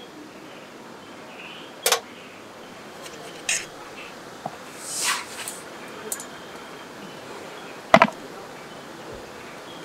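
A handful of sharp clicks and knocks of utensils and camp tableware being handled, the loudest near the end, with a brief swish about halfway, over a steady stream hiss.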